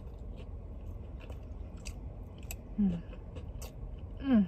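Close-up chewing of a bite of fried chicken sandwich, with scattered wet mouth clicks and light crunching. Two brief falling hums come about three seconds in and near the end, over a steady low rumble.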